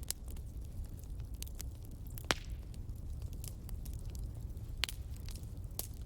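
Fireplace fire crackling: a steady low rumble under scattered sharp pops and snaps, the loudest about two seconds in and more near the end.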